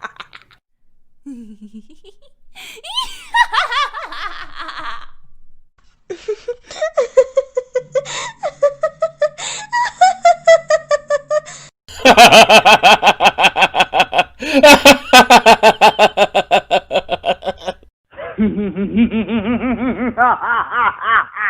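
A string of separate recorded laughs played one after another, with short breaks between clips. The loudest is a fast, hard, rapid-fire laugh in the middle, followed by a lower, bubbling laugh near the end.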